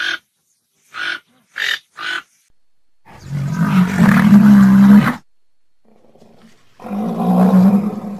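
A toco toucan gives four short croaking calls. Then a large animal gives two long, deep, loud roaring calls, starting about three and about seven seconds in.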